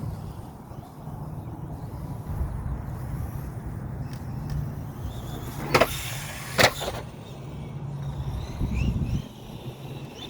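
Redcat Volcano EPX Pro brushless RC monster truck running over a low rumble, with faint brief motor whines and two sharp knocks less than a second apart a little past halfway.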